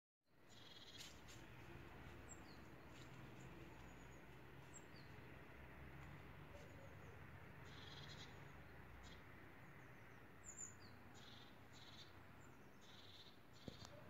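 Quiet outdoor ambience with a few faint, short, high bird chirps scattered through it.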